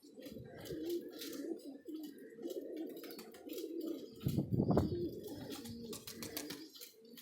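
Many domestic pigeons cooing together in a loft, a continuous overlapping murmur with scattered sharp clicks. A louder, deeper burst comes about four seconds in.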